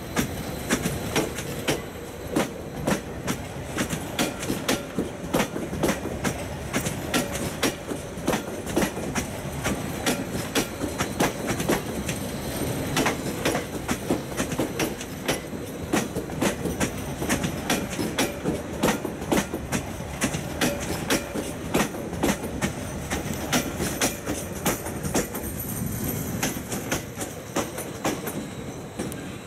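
Stadler FLIRT electric multiple unit pulling out of the station, its wheels clattering rapidly and irregularly over rail joints and points.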